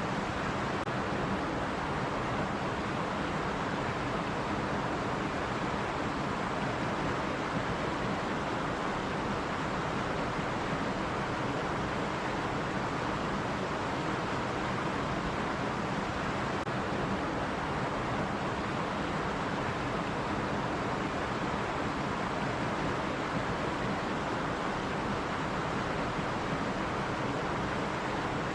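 Running stream, a steady, continuous rush of water with no separate splashes or breaks.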